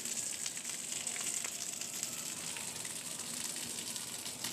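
Floodwater rushing steadily, a continuous crackling hiss: runoff from higher ground still flowing after the rain has stopped.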